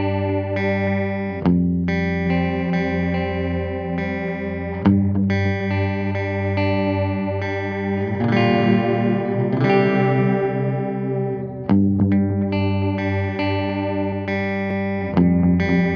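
Electric guitar played through an analog bucket-brigade-style delay pedal, sustained chords strummed and changing every few seconds, with the echoes carrying over each change.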